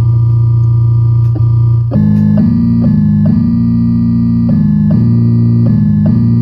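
Electronic keyboard playing one of its built-in synthesized voices: a steady low note held throughout, with notes above it changing. From about two seconds in, a higher line of notes moves roughly every half second.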